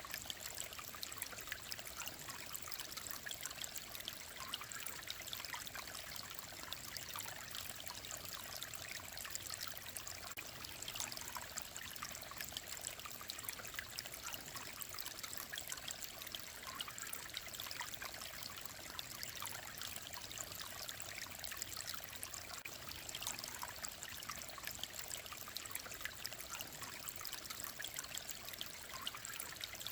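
Clear mountain stream flowing and babbling over rocks, a steady trickling rush with fine splashing, unchanging throughout.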